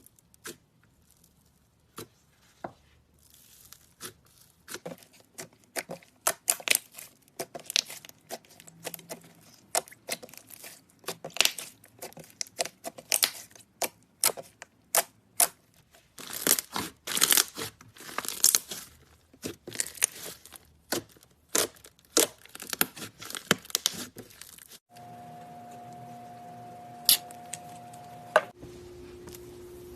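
Clay slime being handled: a dense run of sharp, sticky clicks and crackles that grows busier, then stops. Near the end a steady hum with a held tone takes over, with a few clicks left.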